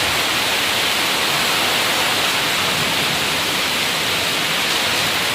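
Heavy rain pouring down in a sudden storm: a steady, loud rush of water.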